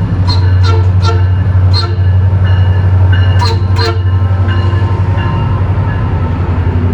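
A train running close by: a loud steady low rumble with a series of short metallic strikes that ring on briefly, fewer after about four seconds.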